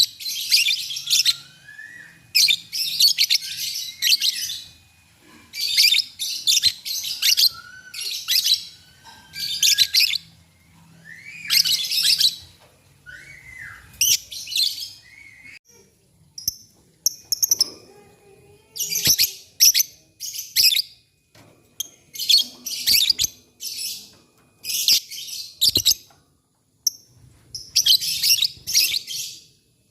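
Lovebird chattering in repeated bursts of rapid, high-pitched notes, each burst a second or two long with short breaks between, and a few short rising chirps among them.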